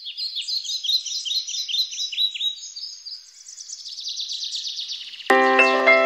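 Birdsong: a dense run of quick, high, falling chirps, thinning out midway and picking up again. About five seconds in, music with chiming mallet notes starts abruptly.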